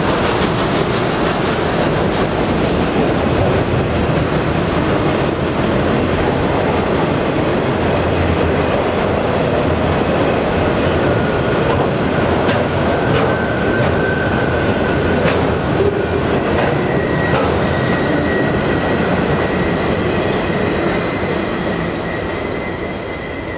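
Autorack freight cars rolling past: a steady rumble and clatter of steel wheels on rail, with a few sharp clanks. Thin, high wheel squeals join about halfway and grow toward the end, while the rumble begins to fade as the last car goes by.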